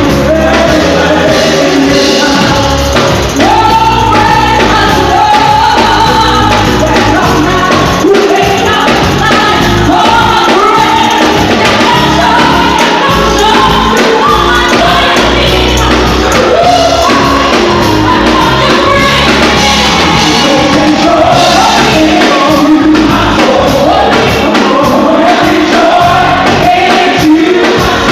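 Loud live gospel worship music: a group of voices singing over instrumental backing.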